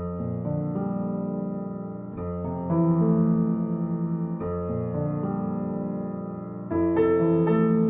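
Slow, gentle piano music: soft chords struck every second or two and left to ring.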